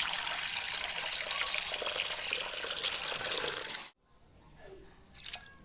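Tap water running into a sink, cutting off abruptly about four seconds in, after which only faint small splashes remain.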